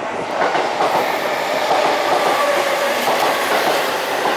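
Seibu 6000 series electric commuter train pulling into the platform at close range, wheels clacking over the rail joints, with a steady whine over the running noise.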